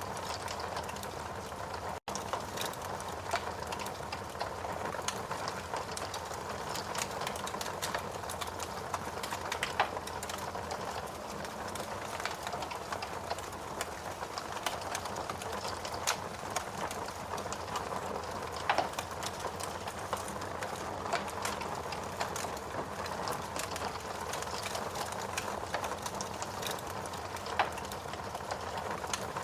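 Steady rain hiss with a wood fire crackling over it, small clicks throughout and sharper single pops every few seconds.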